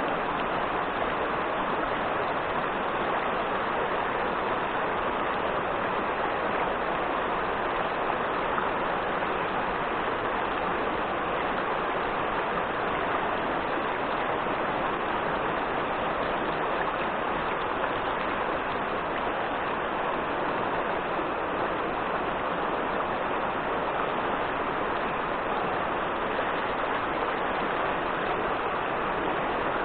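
Steady rush of fast-flowing river water, an even hiss with no change throughout.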